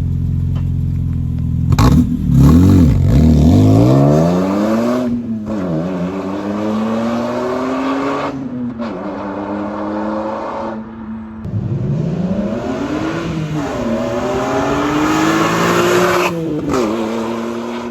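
BMW E46 M3's S54 straight-six through a Valvetronic Designs valved sport exhaust, running steadily and then accelerating in repeated pulls, its pitch climbing and dropping back at each gear change.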